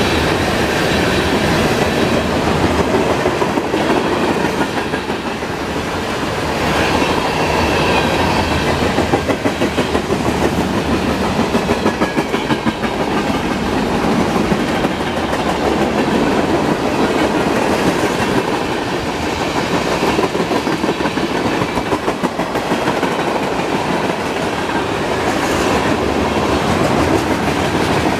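Freight cars of a passing mixed freight train rolling by, steel wheels clattering on the rails in runs of rapid clicks over a steady rolling rumble.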